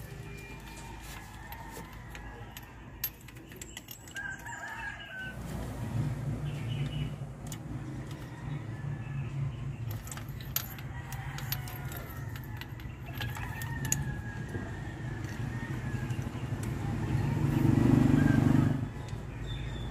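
Roosters crowing several times in the background, with scattered metallic clicks. Under them a low rumble builds from about five seconds in to its loudest shortly before the end.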